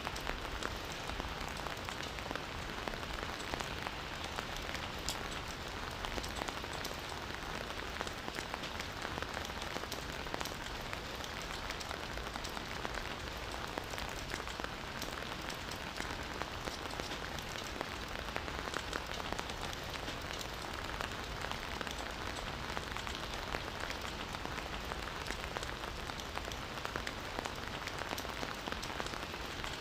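Steady rain falling in a forest, a constant hiss of rainfall with many small drop ticks on leaves and surfaces.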